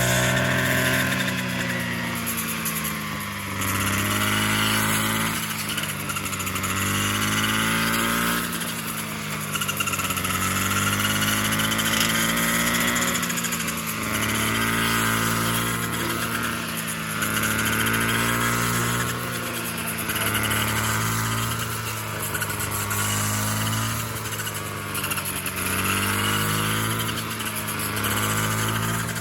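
A small engine running continuously, its pitch and loudness rising and falling in a repeating cycle about every two to three seconds.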